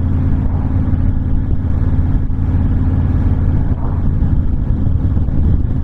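Honda VTX1300's V-twin engine running at a steady cruising speed, with wind rushing past.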